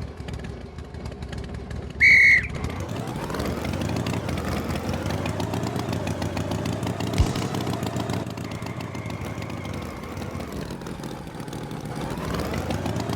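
Cartoon tractor engine sound effect, running with its pitch rising and falling slowly as it revs. A short, loud, high-pitched beep comes about two seconds in, and a brief knock about seven seconds in.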